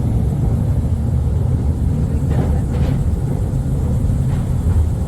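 Mail Rail passenger train running through a narrow tunnel: a steady low rumble, with a couple of brief clatters about halfway through.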